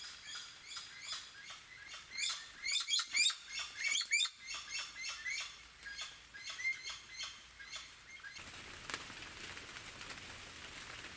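Rapid high chirping calls of forest wildlife, thickest and loudest in the middle. A little after two-thirds of the way through they give way abruptly to the steady hiss of rain falling on the rainforest.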